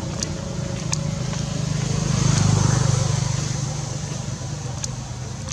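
A motor vehicle's engine passing by, growing louder to a peak about halfway through and then fading, with a few faint sharp clicks.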